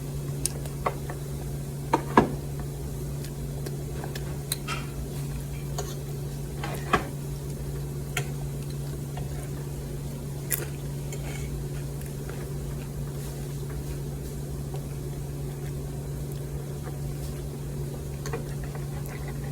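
Eating sounds: scattered sharp clicks and soft knocks of food and dishware being handled, the loudest a pair about two seconds in, over a steady low hum.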